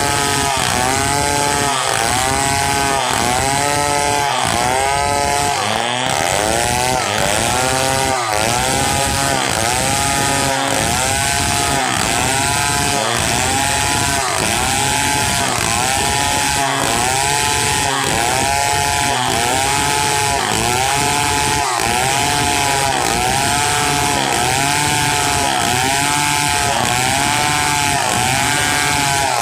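Large two-stroke chainsaw, a Stihl 070, running while sawing pule wood into boards. Its engine pitch rises and falls in a steady rhythm about once a second.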